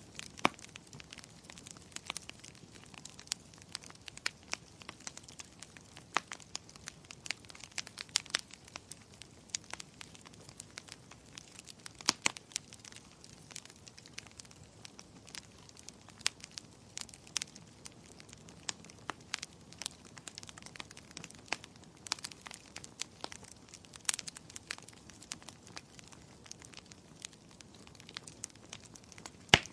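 Wood fire crackling in a fireplace: frequent irregular sharp pops and snaps over a faint steady hiss.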